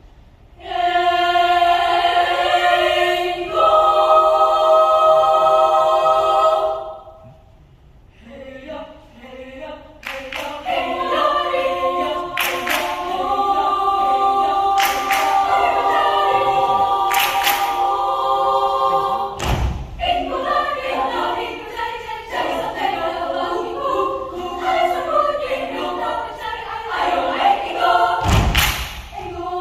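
Children's choir singing a cappella: a loud held chord, a short dip, then a busier passage of moving voices. Two heavy low thumps come in the second half.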